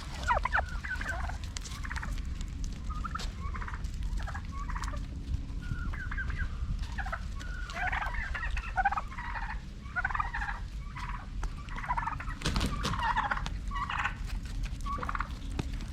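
Domestic turkeys gobbling, a run of short warbling calls one after another, several birds overlapping.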